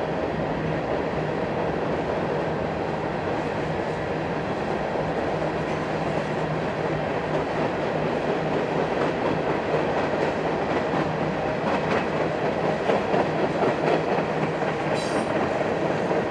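Freight train's tank cars rolling over a steel truss bridge: a steady rumble of wheels on rail with clickety-clack from the rail joints, a little louder in the second half.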